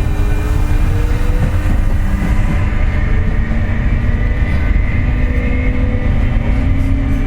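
Running sound heard inside a JR West 201 series electric train car, with a heavy low rumble and a whine that slowly rises in pitch as the train gathers speed. The car carries a jet-like bearing noise, which the uploader puts down to electrical pitting (electric erosion) of the bearings.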